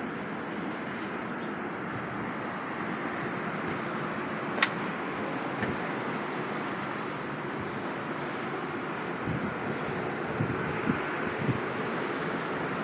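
Steady background noise of street traffic, with a sharp click about four and a half seconds in and a few soft knocks near the end.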